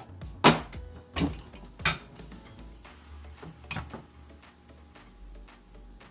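Metal chainsaw-mill parts clanking against each other as they are handled during assembly: four sharp clanks in the first four seconds, then quiet handling.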